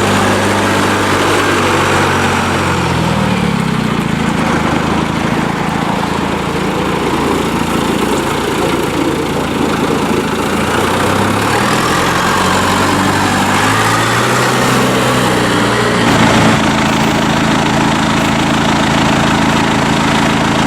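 John Deere 5085M tractor's four-cylinder turbo diesel running, its engine speed rising and falling several times, then holding steady at a higher speed about three-quarters of the way through.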